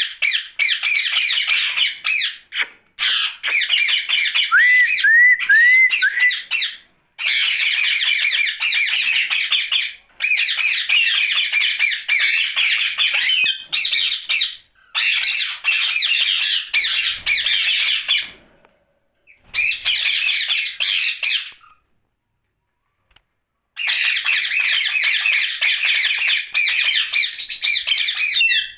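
Indian ringneck parakeet squawking and chattering in long harsh bouts of several seconds each, with short pauses between them. About five seconds in, four short rising whistled notes sound through the chatter.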